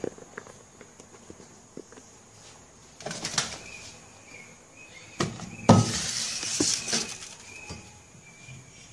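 Handling noises as things are set down: a short rustle about three seconds in, then a sharp knock followed by about a second of rustling, with faint high chirps now and then.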